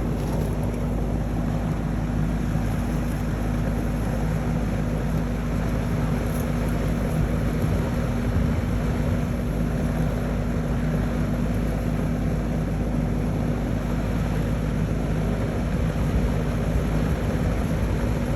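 A steady low mechanical hum with several constant tones over a continuous deep rumble, unchanging throughout.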